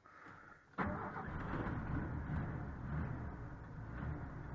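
A short hush after the engine stalls, then the 1986 Ford F-150's cold 300 cubic-inch inline-six is running steadily from about a second in.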